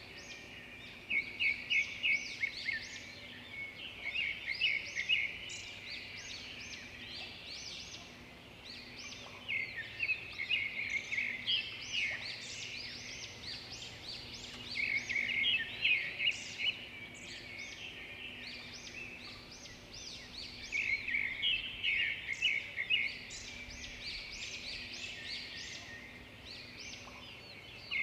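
A chorus of small songbirds chirping and twittering over one another in bouts of a few seconds, with quieter stretches between them.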